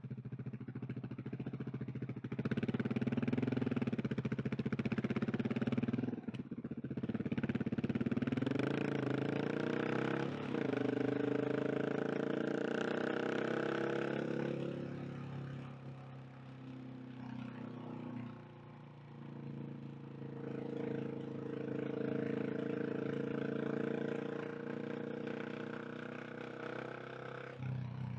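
KTM 690 SMC R single-cylinder engine running under way, its pitch climbing as it accelerates, with short breaks about six and ten seconds in. About halfway through the engine backs off and drops in pitch, then pulls again before easing near the end.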